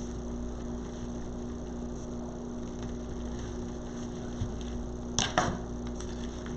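Steady low electrical hum of room background, with two short clicks close together a little over five seconds in.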